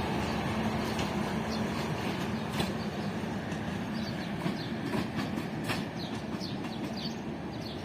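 Train cars rolling along the track, wheels clicking over rail joints with short high squeaks, the sound slowly fading as the train moves away.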